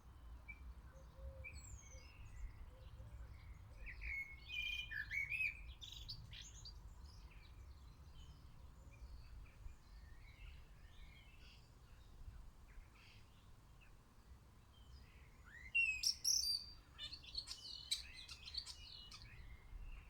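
Small garden birds chirping and calling, in short quick notes, with a flurry of chirps about four to six seconds in and a louder flurry near the end.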